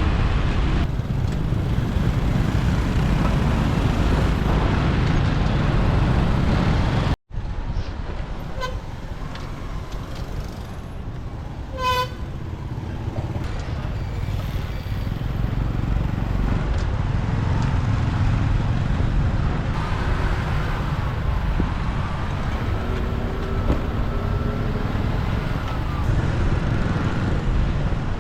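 Motorbike riding through city traffic: steady engine and road rumble with wind on the microphone, and a short vehicle horn toot about halfway through. The sound cuts out for an instant about a quarter of the way in.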